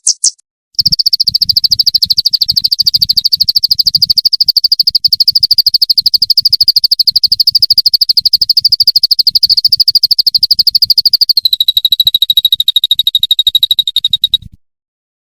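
A rapid, high-pitched trill from a recorded songbird-training (masteran) track, pulsing very fast and evenly. It starts just under a second in, drops a little in pitch about three-quarters of the way through, and cuts off shortly before the end.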